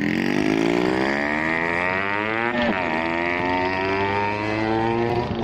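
Yamaha RXZ 135's two-stroke single-cylinder engine accelerating hard away, its pitch rising steadily, dropping sharply as it shifts up about two and a half seconds in, then rising again until another upshift near the end.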